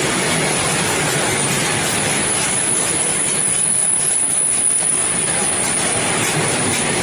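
Freight train rolling past, a steady loud noise of wagons on the rails with a thin, high-pitched wheel squeal held over it.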